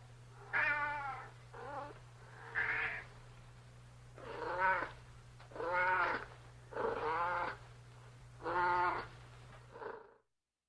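Domestic cat meowing over and over: about eight calls, each under a second long, over a steady low hum. The sound cuts off just before the end.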